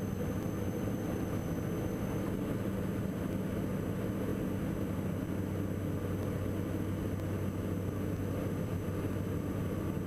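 Steady drone of a Diamond DA42 NG's twin turbodiesel engines and propellers heard inside the cockpit, at reduced power in slow flight with the landing gear down.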